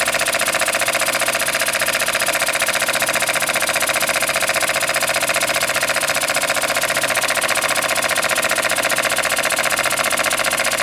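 Small homemade steam engine running steadily, with a rapid, even pulsing beat.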